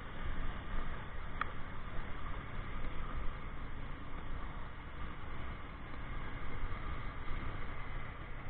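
Motorcycle engine running steadily with road and wind noise while riding, and a brief high squeak about a second and a half in.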